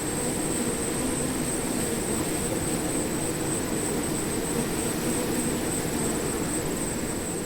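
A swarm of bees buzzing in a dense, steady drone, with a thin high whine running above it.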